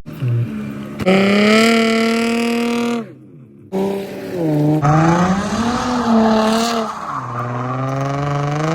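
A car's engine revving hard while the car is slid around in a drift, with the tyres squealing. The revs hold high for about two seconds, dip and briefly drop away, then climb and fall again before settling lower near the end.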